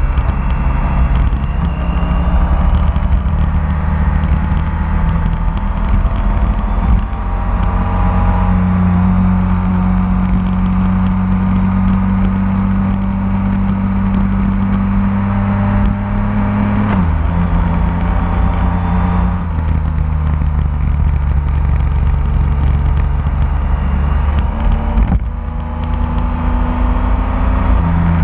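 BMW K1600 motorcycle's inline-six engine running at a steady cruise, heard from the bike itself. Its note drops a step about two-thirds of the way through and climbs again near the end.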